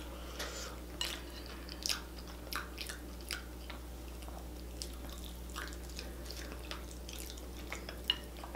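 Close-miked mouth sounds of someone eating sauce-coated boiled potatoes: chewing with irregular soft, wet smacks and clicks, a few each second.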